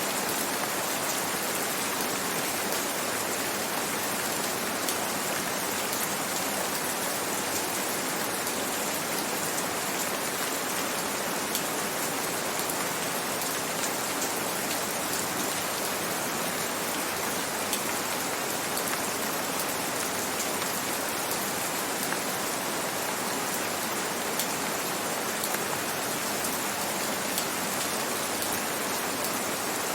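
Gentle rain falling steadily, with a few individual drops ticking a little louder now and then.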